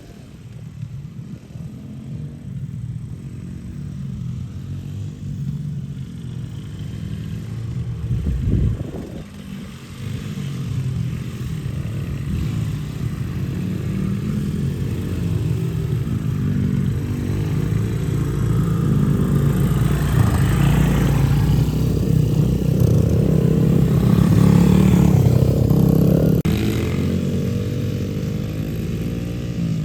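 Small dirt bike engine running, growing steadily louder as it draws near, with a brief louder burst about eight seconds in. It is loudest between about twenty and twenty-six seconds in, then eases off a little.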